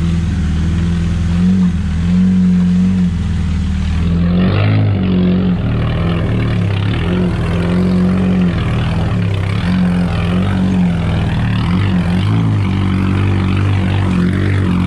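A 4x4 off-road vehicle's engine running under load as it drives down into a canal. The engine holds a steady low note, and a rougher rushing noise joins in about four seconds in.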